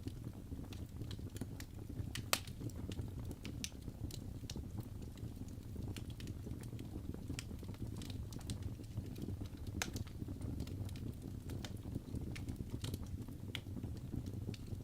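Wood fire crackling with irregular sharp pops, over a steady low rumble.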